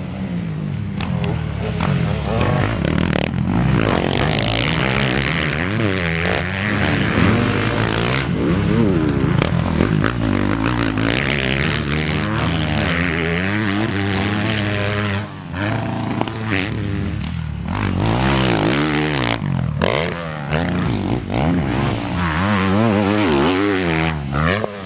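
Several motocross dirt bike engines running at once, their pitch rising and falling over and over as the riders rev, shift and roll off the throttle.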